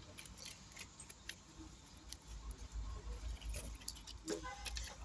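Scattered light clicks and taps of tools working against a phone's glass and frame while its screen is being pried off a heated separator plate. A low rumble of handling comes in about halfway through.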